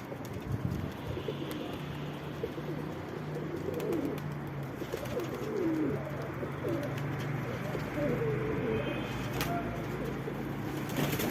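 Domestic pigeons cooing, many short rolling coos overlapping throughout, over a steady low hum.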